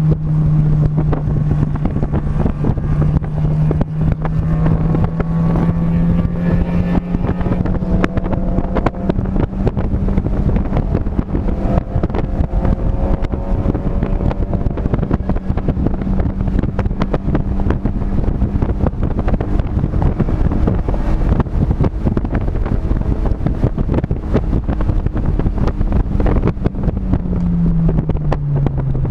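Car engine running hard at steady high revs, with wind rushing over the microphone. The engine pitch climbs slightly about six seconds in, holds for a long stretch, then falls near the end as the revs come down.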